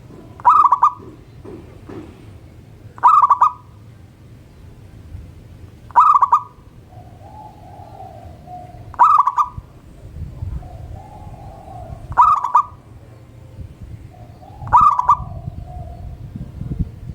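Zebra dove (perkutut) singing its short, rapid pulsed call six times, about every three seconds. Softer, longer cooing from other doves comes in between the later calls.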